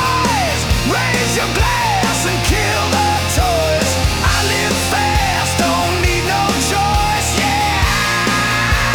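Loud hard rock music: a bending, gliding lead melody over a steady drum beat and bass.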